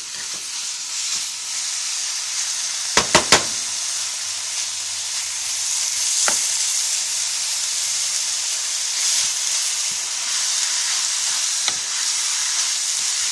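Chicken pieces in red curry paste sizzling in a hot pan as they are stirred with a spatula: a steady frying hiss. Three quick knocks of the spatula on the pan about three seconds in, with single taps later.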